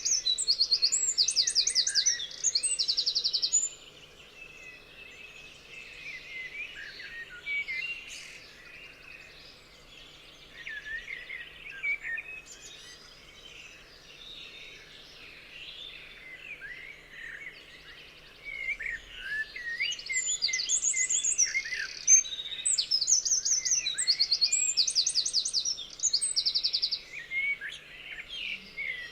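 Several songbirds singing and chirping together. A loud song of quick, high repeated notes comes in the first few seconds and again several times in the second half, over softer overlapping chirps and whistles.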